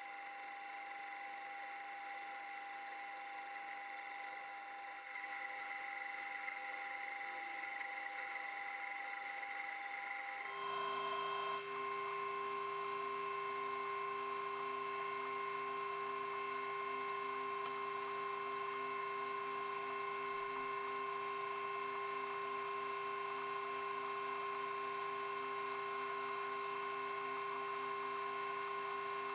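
Metal lathe running with a steady gear whine. About ten seconds in the whine shifts to a different, slightly louder set of tones and runs steadily again.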